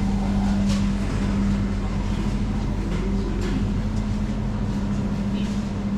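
Steady hum and low rumble inside a moving electric railway carriage, with a few faint clicks and murmured voices.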